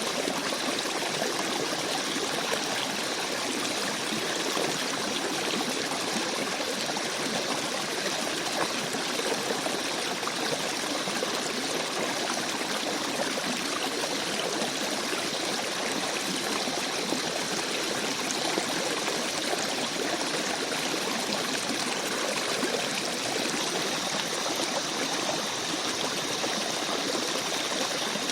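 Shallow forest stream babbling, with water running and trickling over rocks in a steady, even rush.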